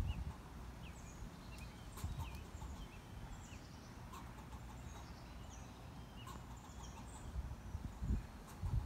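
Small birds chirping: short high calls, many of them falling in pitch, scattered throughout at several pitches. Low thumps on the microphone come near the start, about two seconds in and near the end.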